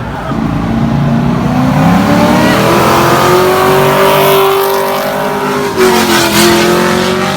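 Ford Mustang's engine accelerating hard in a pull-out, its revs climbing for about five seconds, then dropping briefly at a gear change near the end before pulling again.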